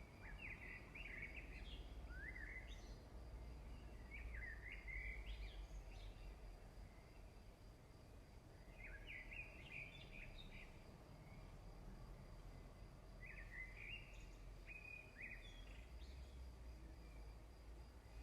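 Faint bird song: short chirping phrases come four times, a few seconds apart, over a steady low rumble.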